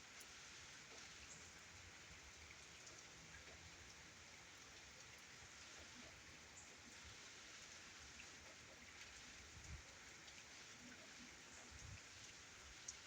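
Light, steady rain pattering with scattered individual drops, heard faintly, and a few soft low thumps in the last few seconds.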